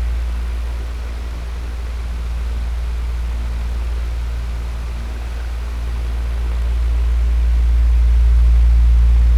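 Electric fan running steadily: a strong low hum with a whooshing air hiss over it, its level sinking a little in the first seconds and swelling back up near the end.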